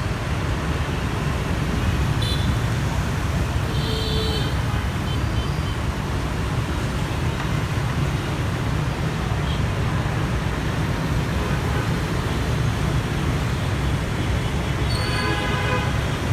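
Road traffic at a bus stop: a steady low rumble of passing engines. A short high toot sounds about four seconds in, and another pitched toot near the end.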